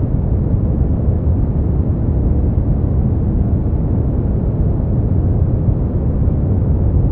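Synthetic brown noise: a steady, deep rumbling hiss, strongest in the lows and falling away toward the highs, with no change.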